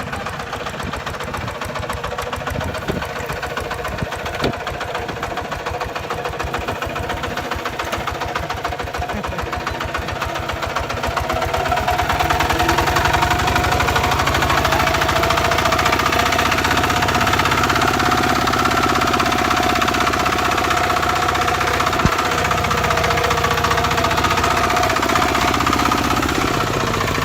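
Kubota RT140 single-cylinder diesel engine running with a rapid, even chug, growing louder and busier about twelve seconds in and staying up until near the end.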